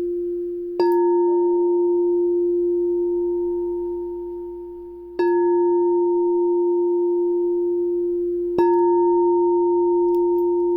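Singing bowl struck three times, about 1, 5 and 9 seconds in. Each strike starts with a sharp tap and then a steady, pure ringing tone with fainter higher overtones that fades slowly until the next strike. It is played as heart chakra sound therapy.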